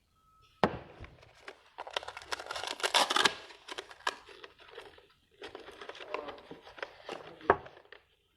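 Crinkling and rustling of something being handled, with a sharp click about half a second in and another near the end.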